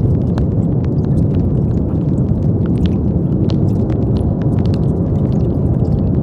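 Steady brown noise: an even, deep hiss weighted to the low end, with faint scattered ticks above it.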